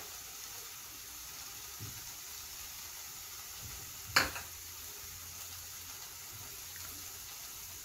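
Ground masala paste with spice powders sizzling softly and steadily in oil in a kadai, at the stage where the oil has separated from the masala. A single sharp click comes about four seconds in.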